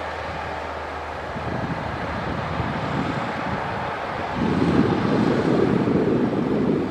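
Heavy diesel earthmoving machinery running steadily, growing noticeably louder about four and a half seconds in.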